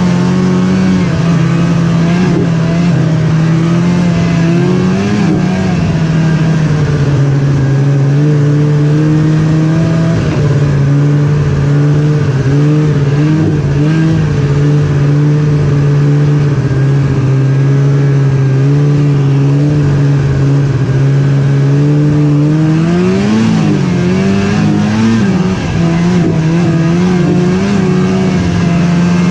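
Snowmobile engine running steadily at speed. Its pitch drops a few seconds in, then rises and wavers briefly a few seconds before the end before settling.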